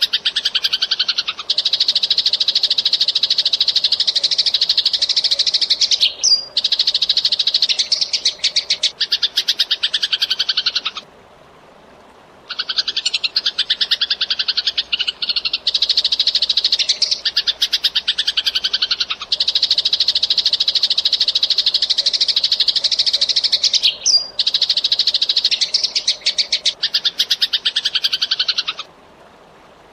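Eurasian tree sparrow chirping in fast, tightly packed runs of high chirps, broken by a short pause about eleven seconds in and another near the end.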